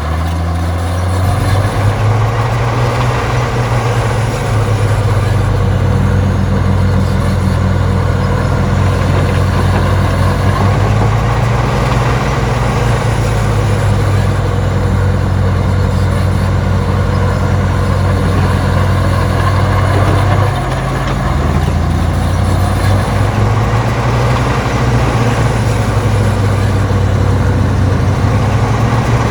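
Heavy diesel engine of earthmoving machinery running steadily under work, with a brief drop in level about twenty seconds in.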